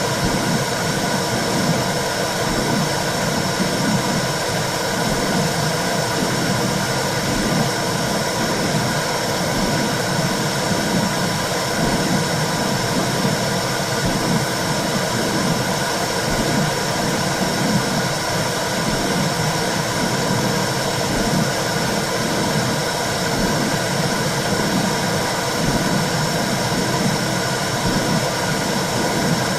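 Recorded or simulated womb sound: a steady low whooshing rumble with a fainter hiss above it.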